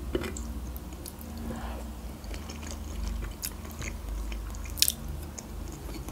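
Close-miked chewing of soft boiled dough and meat (Azerbaijani khinkal), with small wet mouth sounds and scattered short clicks, the sharpest a little before the end.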